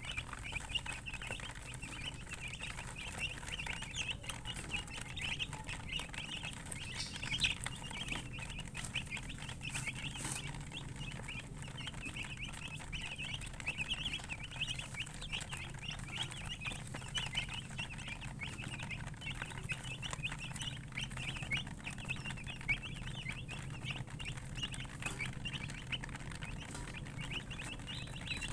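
A group of chicks peeping continuously, a dense stream of short, high cheeps overlapping one another, over a low steady hum.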